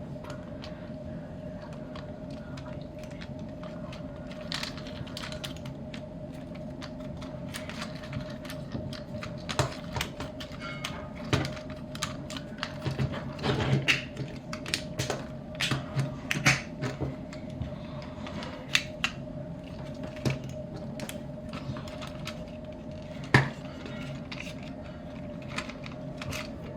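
Plastic clicks, snaps and ratcheting joints of a Transformers Legacy United Leader Class Sandstorm figure being transformed by hand into helicopter mode, irregular and busiest in the middle, with one sharp snap near the end. A steady low hum runs underneath.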